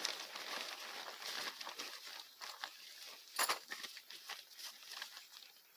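Irregular rustling and crinkling from tent and tarp gear being handled on leaf-littered ground, with a sharp knock about three and a half seconds in.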